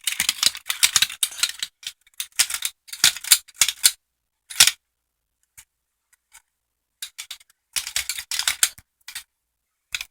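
Metal finger blades of a Freddy Krueger replica glove clinking and scraping against one another in quick clusters as the fingers flex, with a silent pause in the middle.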